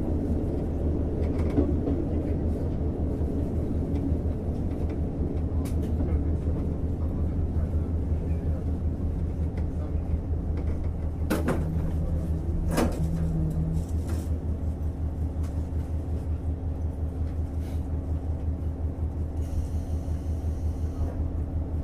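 Inside a JR Hokkaido KiHa 150 diesel railcar under way: the steady drone of its diesel engine and the rumble of the wheels on the rails. Around the middle come two sharp clacks about a second and a half apart, typical of wheels crossing rail joints.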